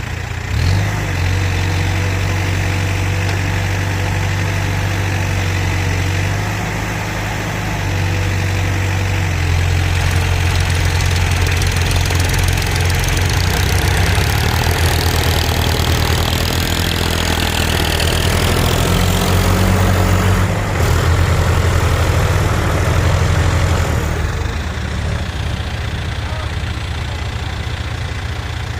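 Diesel engine of heavy earthmoving or farm machinery running, its note stepping up about a second in, easing briefly, then working harder for most of the stretch before settling back near the end.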